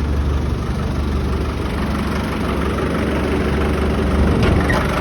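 Land Rover 300 Tdi 2.5-litre four-cylinder turbodiesel idling steadily, with a short knock near the end.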